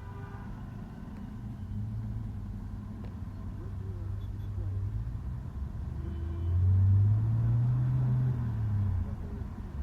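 Bus engine heard from inside the moving bus: a low, steady drone that rises in pitch and grows louder about two-thirds of the way through as the bus accelerates, then eases off near the end.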